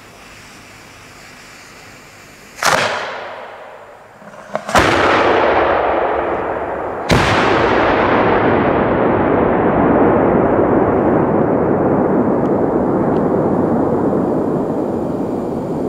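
Salute fireworks going off: three loud bangs about two seconds apart, the last one trailing into a long rolling rumble that slowly fades.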